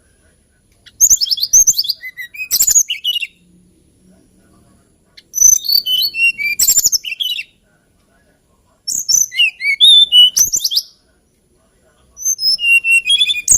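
Hill blue flycatcher (Cyornis banyumas) singing: four quick, warbling phrases of high notes, each about two seconds long, with short pauses between them.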